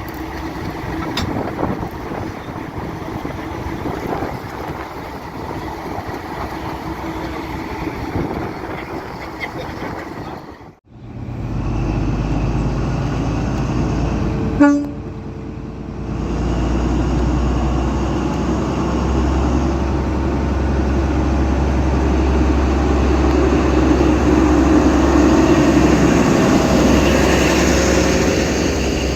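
Diesel locomotive engine running with a steady low drone that grows louder, and one short horn toot about fifteen seconds in. Before that, for the first third, an even rushing noise like wind on the microphone, ending at an abrupt break.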